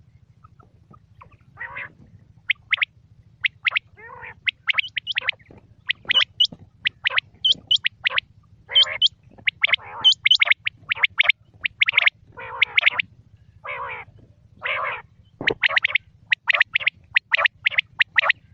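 Quail calling over and over: quick runs of short, high chirping notes mixed with broader, harsher calls, with a faint steady hum underneath.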